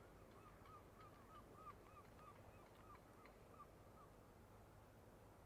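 A faint bird calling a quick series of about a dozen short, arching notes, roughly three a second, that stops about four seconds in.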